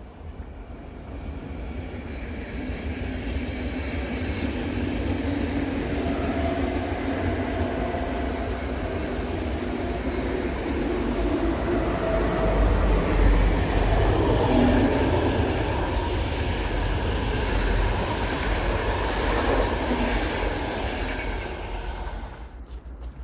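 Passenger train passing on the line. Its noise builds over the first few seconds, is loudest in the middle and drops away just before the end, with a few steady tones over the rumble.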